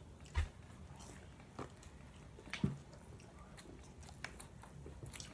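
A person biting and chewing food close to the microphone, with a few short crunchy clicks from the mouth spaced out over several seconds.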